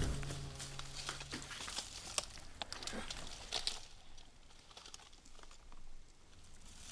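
Quiet rustling and scattered small clicks of hands handling things, with a low hum that stops about a second and a half in.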